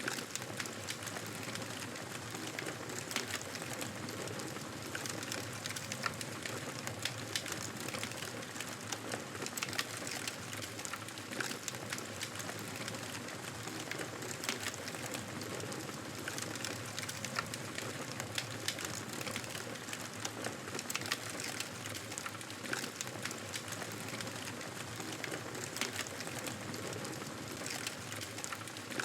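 Wood fire in a fireplace crackling steadily: frequent small sharp pops and snaps over a soft, even hiss of the flames.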